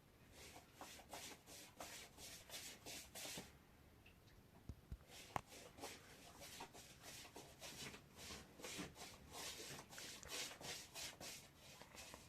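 Faint repeated rubbing strokes, about three a second, stopping for about two seconds near the middle and then going on. There is one sharp click about five seconds in.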